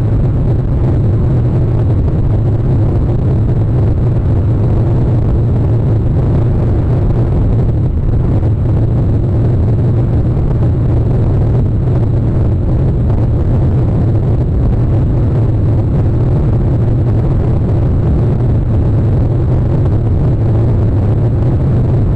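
Steady, loud low rumble with no distinct calls or other events in it.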